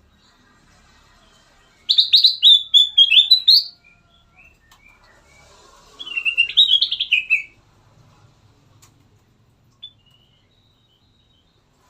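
Kutilang emas (golden bulbul) singing two short bursts of rapid, varied warbling phrases, the first about two seconds in and the second about six seconds in.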